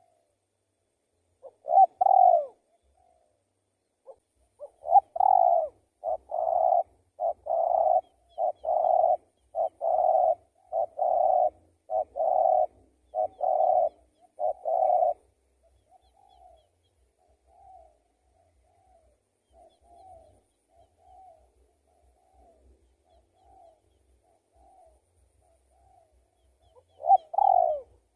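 Spotted dove cooing: a loud double coo, then a long run of about ten evenly spaced coos, then a stretch of softer, fainter coo notes before the loud cooing starts again near the end.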